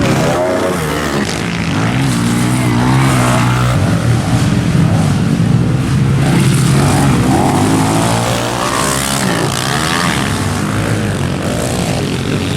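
Several pit bike engines revving up and down as the small dirt bikes race, their pitches rising and falling and overlapping.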